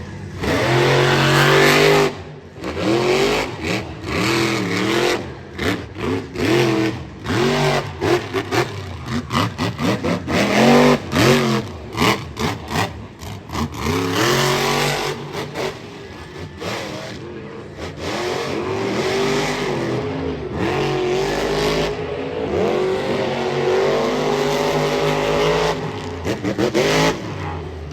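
Monster truck engine revving hard in repeated rising and falling throttle surges, then held at higher, steadier revs in the latter half.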